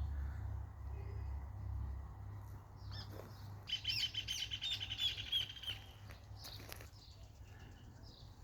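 Birds chirping outdoors, with a rapid chattering run of chirps for about two seconds midway. A low rumble fades out over the first few seconds.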